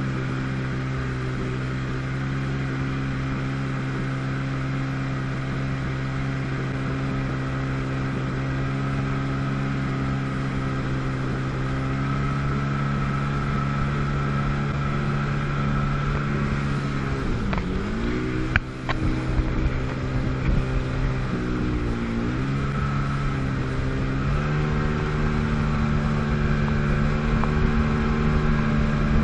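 1997 Sea-Doo GTS's 720 cc two-stroke twin engine running at a steady cruise. The revs drop briefly and pick back up about two-thirds of the way in, dip once more a few seconds later, then hold slightly higher. There is one sharp tap just after the first dip.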